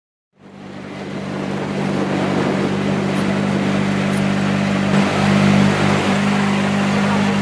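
Citroën C3 Rally2's turbocharged 1.6-litre four-cylinder engine idling steadily in an even, unchanging note, fading in over the first second or two.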